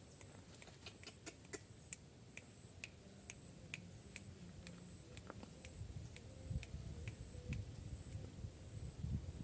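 A series of sharp clicks, irregular at first and then about two a second, over a faint steady high whine; a low rumble grows near the end.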